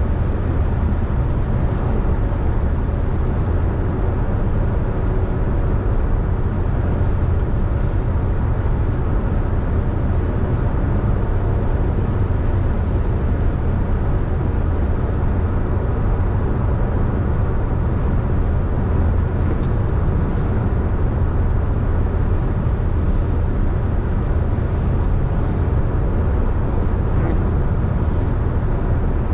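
Car driving on a wet road: steady low rumble of engine and tyres with road hiss. A few faint brief swishes come in the second half.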